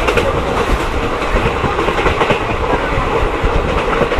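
Mahamana Express passenger train running along the track: a loud, steady rumble with the clatter of wheels over the rails.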